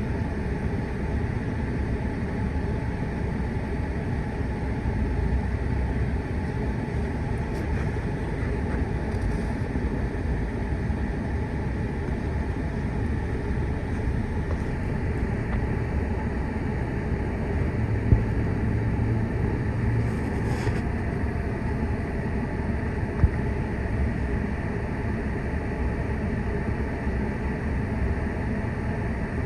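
Steady rumble of fire apparatus and traffic engines with road noise, no siren sounding. Two brief sharp knocks come about two thirds of the way through.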